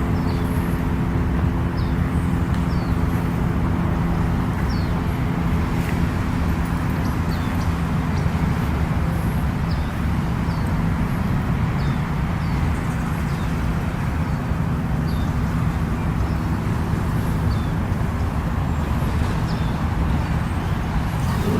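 Steady road traffic noise, with a passing vehicle's engine hum fading over the first several seconds. Short high chirps come every second or so.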